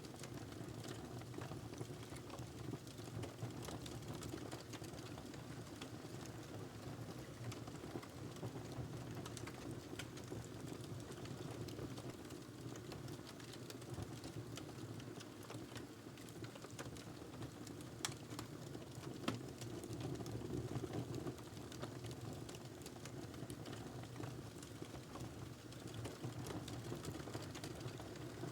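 Fire burning in a fireplace: a steady low rumble of flames with continual small crackles, and two louder pops about two-thirds of the way through.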